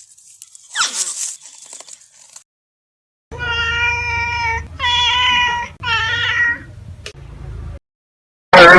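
An animal's high mewing calls: a short falling squeak, then three drawn-out, steady-pitched calls of about a second each. A loud, noisy sound cuts in suddenly near the end.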